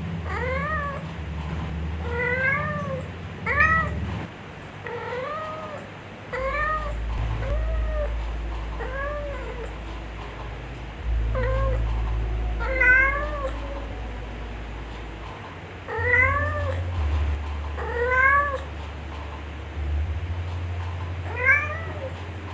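Mother cat calling her kittens to nurse with a series of short meows, about a dozen, each rising and falling in pitch, spaced irregularly one to three seconds apart.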